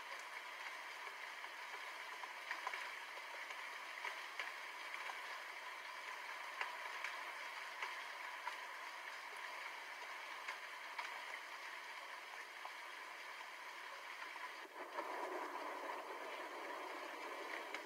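Steady rain falling, with scattered sharp drop ticks throughout. About fifteen seconds in it briefly dips, then swells heavier for a few seconds; no thunder rumble is heard.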